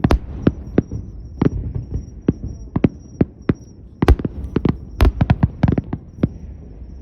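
Aerial fireworks shells bursting in quick irregular succession: a run of sharp booms and cracks with a low rumbling echo, thickest about four to six seconds in, then stopping shortly before the end.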